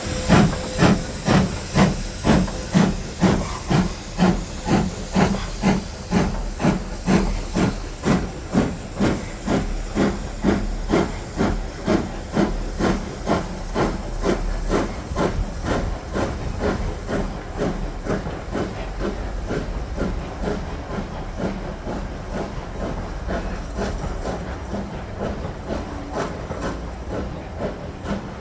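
Ivatt class 2MT tank steam locomotive pulling away, its chuffing exhaust beats quickening steadily and fading as it draws off, over a hiss of steam.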